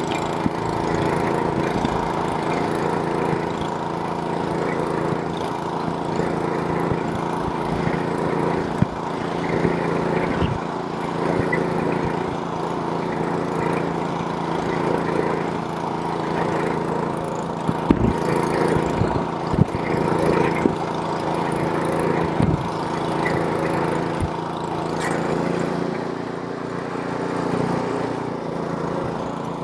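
Snowblower's small gasoline engine running steadily under load as it throws snow. A few short knocks stand out in the second half.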